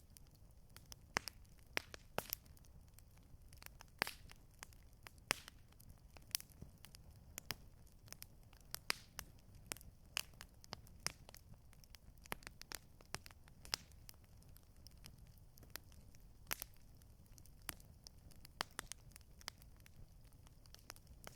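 Wood campfire crackling: irregular sharp pops and snaps, several a second and varying in strength, over a soft steady low noise.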